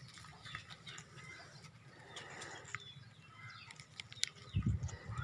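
Faint chirps from a pet bird, with scattered sharp clicks. Low thumping noise comes in near the end.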